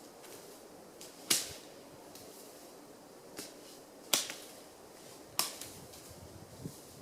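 Dry wood cracking sharply as branches are broken up for campfire kindling: three loud cracks a second or more apart, with a couple of fainter ones between.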